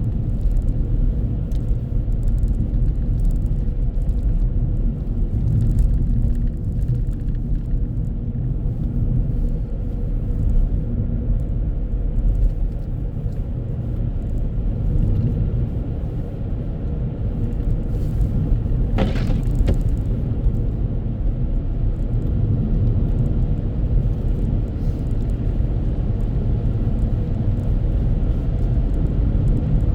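Car driving, heard from inside the cabin: a steady low rumble of road and engine noise, with one brief sharper sound about two-thirds of the way through.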